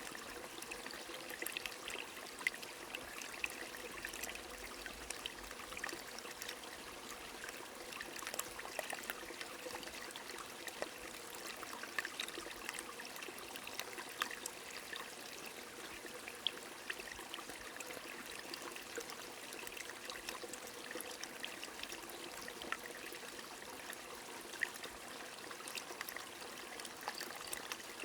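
A small stream trickling and pouring steadily, with rain falling: many light, scattered drop ticks over the even rush of water.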